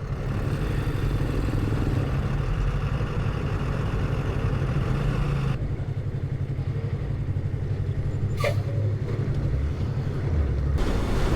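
Yamaha MT-03 motorcycle engine running steadily as the bike rides along, with a high hiss over it that drops away about halfway through and comes back near the end.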